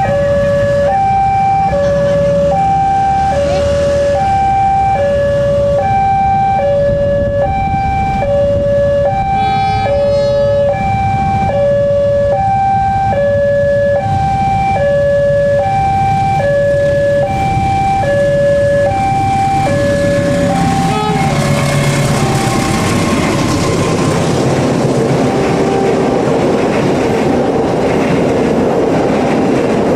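Railway level-crossing warning alarm sounding a steady two-tone hi-lo signal, one cycle about every second, warning of an approaching train. About two-thirds of the way through it stops and a passing train's rumble and wheel noise take over, growing louder.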